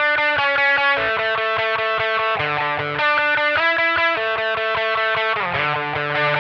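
Electric guitar played through a compressor, overdrive, delay and reverb. It plays a melody of sustained, distorted notes and double-stops that change every half second to a second, with repeating echoes of the picked attacks.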